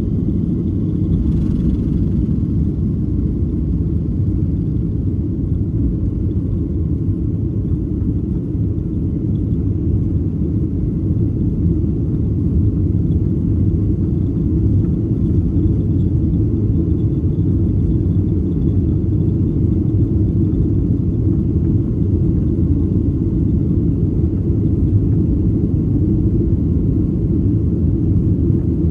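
Steady low rumble of a Boeing 737-800's CFM56 engines and airflow, heard from inside the cabin, holding even without rising or falling.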